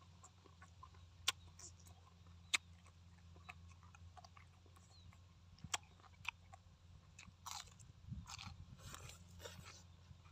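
A man chewing braised pork and crisp fried pieces close to the microphone: soft, wet mouth sounds broken by scattered sharp crunches, two of them standing out in the first few seconds and a denser run of them near the end.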